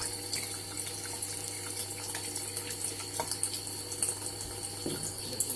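Kitchen tap running steadily into a sink, with small irregular splashes as a budgie bathes in the stream.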